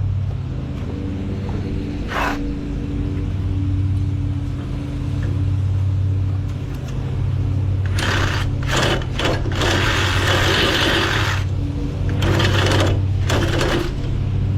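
An engine runs steadily throughout. Over it come harsh, hissing bursts of cutting: a short one about two seconds in, then a longer run of about three seconds in the second half, and another near the end.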